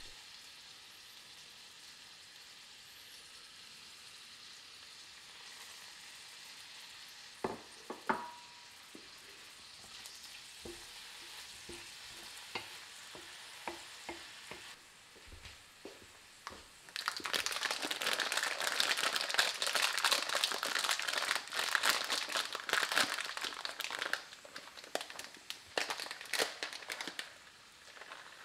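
Chopped onion, garlic and fennel frying in oil in a stainless steel frying pan and being stirred with a wooden spoon. Two knocks come about eight seconds in. The sizzle grows loud about two-thirds of the way through for several seconds, with scattered clicks of the spoon.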